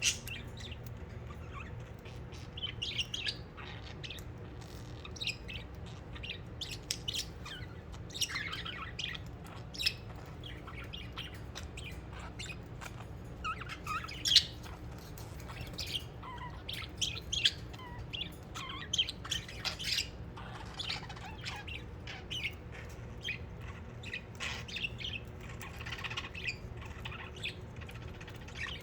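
Budgerigars chirping and chattering in short, irregular calls, with an occasional sharper squawk.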